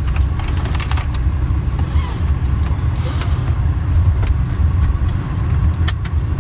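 Steady low road rumble of a moving vehicle heard from inside the cabin, with a few brief clicks or rattles near the start and again near the end.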